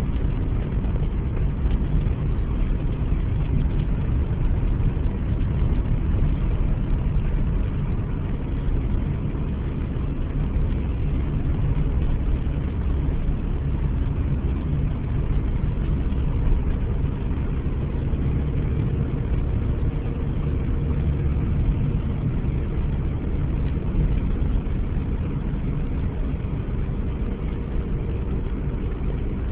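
Car's engine and tyre noise heard from inside the cabin while driving on snow-covered roads: a steady low drone with no distinct events.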